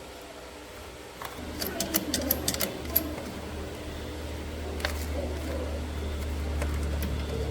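Small motorcycle engine starting about a second in, with a few sharp clicks, then running steadily and getting slightly louder.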